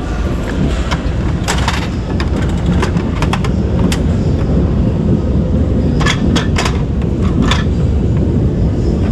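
Capsule-toy (gacha) vending machine's crank being turned by hand: a run of sharp clicks and clacks in scattered clusters over a steady low rumble.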